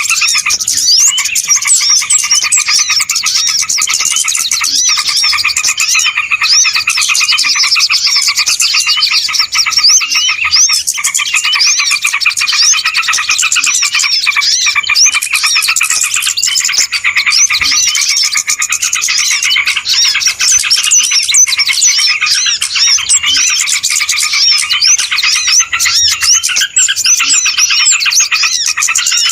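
Loud, dense chorus of many small birds chirping and twittering rapidly without a break: a bird-lure (pikat) recording of small birds calling noisily.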